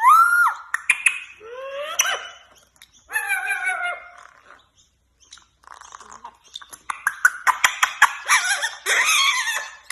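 Pet parrot vocalising: a string of gliding whistles and squawks, then a rapid run of clicking, chattering calls near the end.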